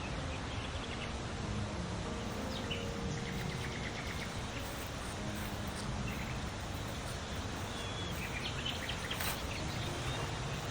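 Outdoor ambience: a steady background hiss with birds chirping on and off, and one sharp click about nine seconds in.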